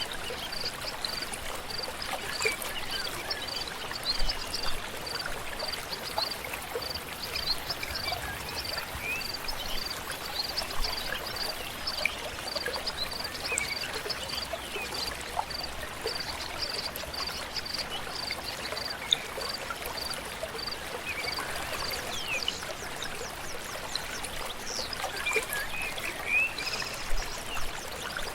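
A river flowing steadily. A high note repeats a couple of times a second for the first two-thirds, and short bird chirps come and go.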